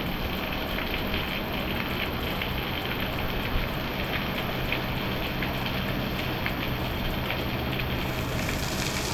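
Heavy tropical rain pouring down: a steady hiss of rainfall with scattered drops tapping, the hiss growing brighter near the end.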